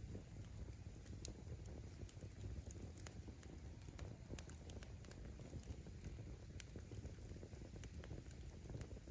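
Wood campfire burning: firewood crackling with scattered small snaps and pops over a low, steady rumble of flames.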